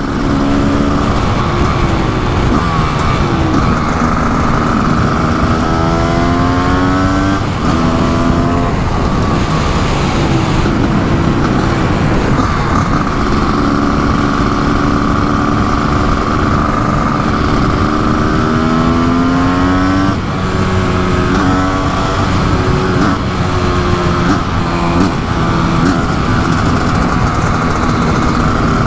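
Kawasaki KX500 supermoto's 500cc single-cylinder two-stroke engine pulling hard on the road. Its pitch climbs as it revs out and drops sharply at each gear change, several times over, with a long climb in the middle.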